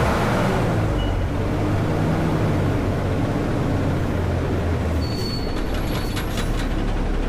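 Front-load garbage truck's engine running steadily, a low hum, with faint light clicks and rattles in the last couple of seconds.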